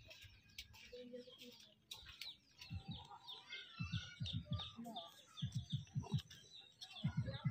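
Birds chirping and twittering, with short runs of soft low thuds from about three seconds in.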